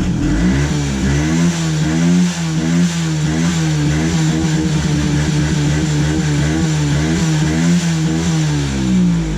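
Kawasaki 110 dirt bike's single-cylinder four-stroke engine running just after starting, fitted with a homemade taped-on plastic muffler. It idles with small blips of throttle, so the pitch wavers up and down, dipping near the end.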